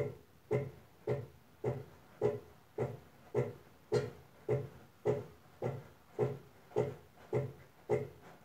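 Brastemp Advantech Wash washing machine agitating during its wool/extra-delicate cycle: the tub or agitator swings back and forth in an even rhythm, about two strokes a second, each stroke a short thump.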